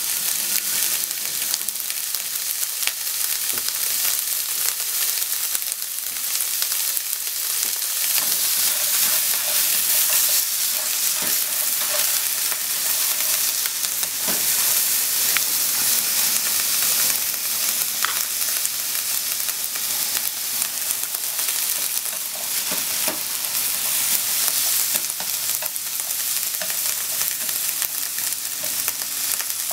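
Sliced onions sizzling steadily in a non-stick frying pan, stirred with wooden cooking chopsticks that click against the pan now and then.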